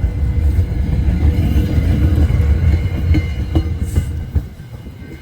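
Passenger train running by on the rails: a heavy low rumble with sharp wheel clicks over the rail joints, easing off near the end.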